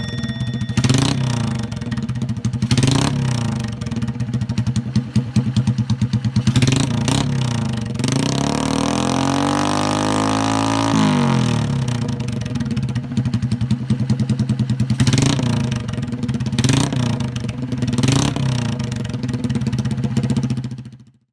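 Honda Super Cub-based chopper's single-cylinder four-stroke engine running through a homemade twin-outlet exhaust, idling steadily. About eight seconds in it is revved once, the pitch rising and falling back over about three seconds, then it settles to idle again.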